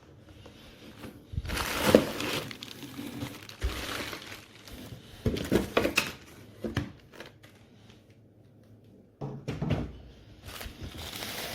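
Handling noises at close range: crinkling and rustling with several light knocks and thuds, coming irregularly.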